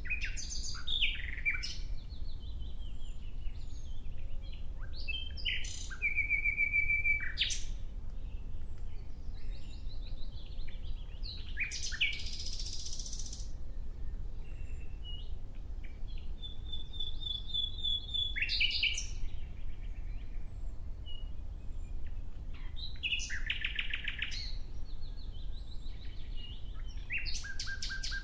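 Nightingale singing: a string of separate phrases, each a second or two long with short pauses between, made of rapid repeated notes and fast trills, with one harsh buzzy phrase about halfway through. A faint steady low rumble lies underneath.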